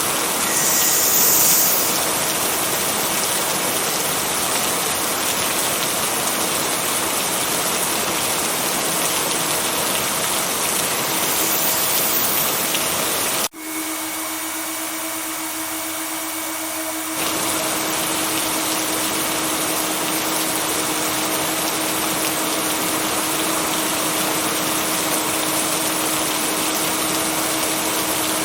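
Heavy rain falling as a steady, even hiss, with a faint steady hum under it. About halfway through there is an abrupt cut, and the deeper part of the rain sound drops away for a few seconds before the full sound comes back.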